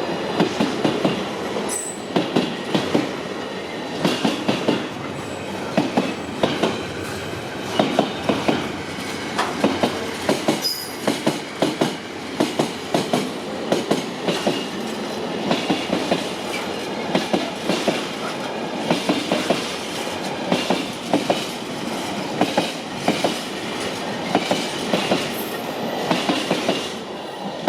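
Trains passing close by: wheels clatter over rail joints in repeated quick groups of clicks over a steady rolling noise.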